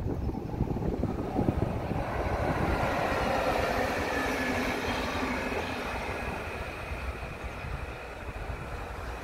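A train passing on the line. Its rolling rush swells about two seconds in and then slowly fades, with a faint steady whine on top.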